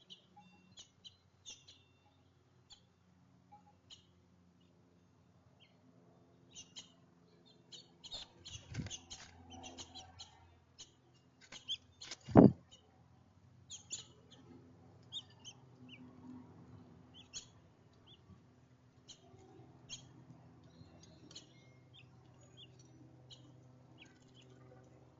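Small songbirds chirping, with many short, high chirps scattered throughout. A sharp thump about twelve seconds in is the loudest sound, and a softer one comes near nine seconds.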